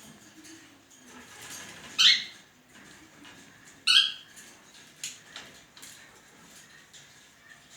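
A bird calling: two loud, short, harsh calls about two seconds apart, followed by several fainter short calls.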